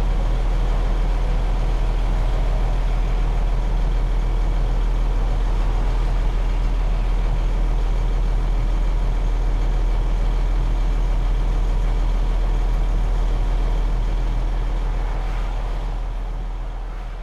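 The 300 hp Cummins 6CTA 8.3 diesel engine of a 1993 KME Renegade fire engine running steadily, fading out near the end.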